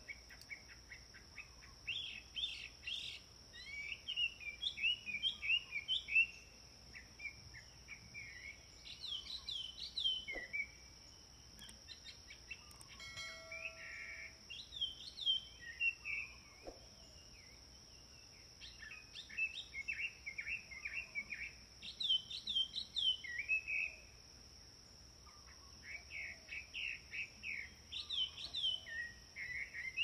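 Songbirds singing in bouts of quick, repeated chirping phrases every few seconds, over a faint steady high-pitched drone.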